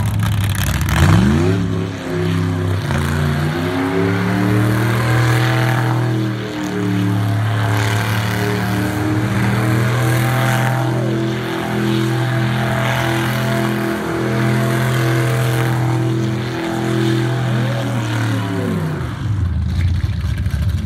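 Rat rod's engine revving up and held at high revs through a burnout, the rear tyres spinning and screeching; the revs dip briefly a few times and fall away near the end.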